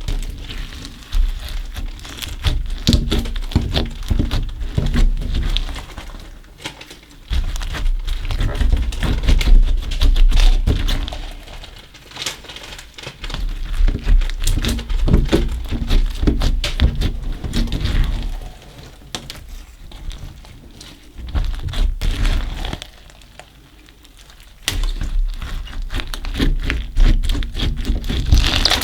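Slime mixed with small coloured particles being squeezed and kneaded by hand: dense crackling and clicking with soft thunks, in bouts with short quieter pauses.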